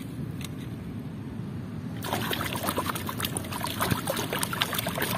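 Water trickling and pouring over toy vehicles being washed. About two seconds in it turns louder and more spattery.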